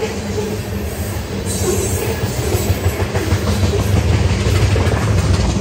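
Freight train of tank cars rolling past on the rails: a continuous rumble with wheel clicks, growing louder about four seconds in.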